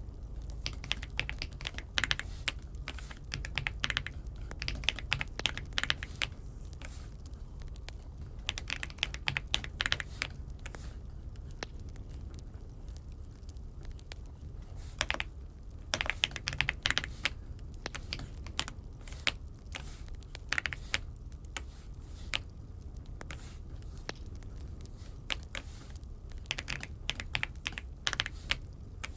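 Typing on an Aula F75 (독거미) mechanical keyboard: clusters of quick keystrokes with short pauses between them.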